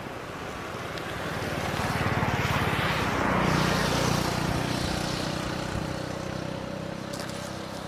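Motorcycle engine passing by: it grows louder over a couple of seconds, peaks a little before the middle, then fades away.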